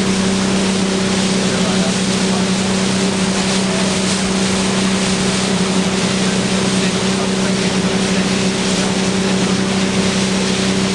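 Motorboat engine running at a steady, unchanging pitch, over a continuous rush of water and wind noise.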